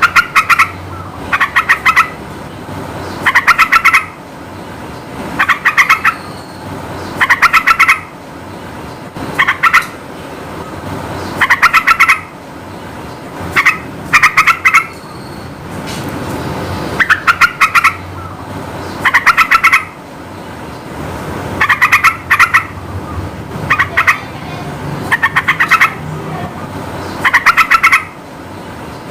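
Sooty-headed bulbul (trucukan) singing short, bubbly phrases about every two seconds, some in quick pairs, over a steady background hiss.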